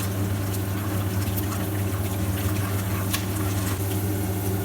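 Peanuts and chana dal frying in hot oil in a pan, with scattered crackles, over a steady low hum.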